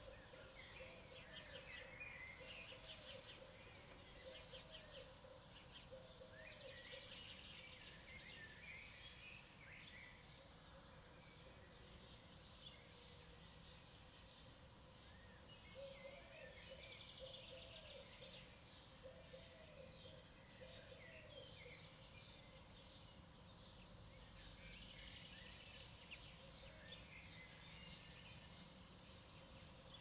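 Faint birdsong of several birds. Trilled song phrases come back every several seconds, and a lower series of short repeated calls runs at the start and again about halfway through.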